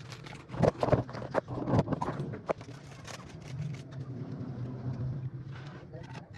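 A quick run of sharp clicks and knocks in the first two and a half seconds, then a few fainter ones, over a steady low hum.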